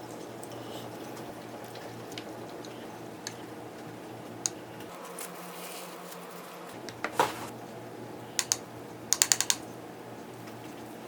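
Scattered light clicks and taps of kitchen utensils on dishes and the work surface while a rice cake is assembled, ending with a quick run of about five clicks, over a steady low hum.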